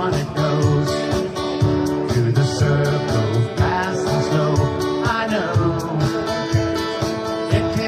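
A song: a voice singing over guitar-backed music with a steady bass line.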